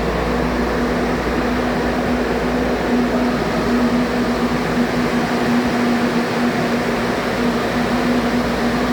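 Water-damage drying blowers (air movers) running steadily: a loud, even rush of air with a steady hum.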